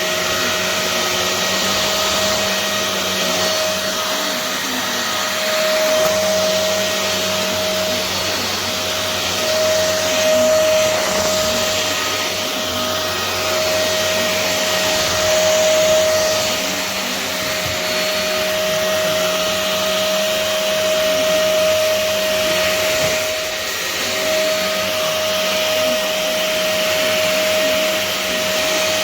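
Tower T513008 VL35 cordless stick vacuum running steadily: a high, steady motor whine over a rush of air, swelling and easing a little every few seconds.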